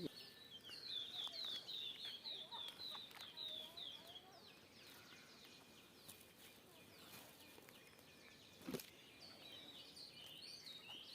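Small bird chirping faintly, a quick run of short high notes about three a second for the first four seconds, then scattered fainter down-slurred notes and a few more chirps near the end. A single sharp click comes about nine seconds in.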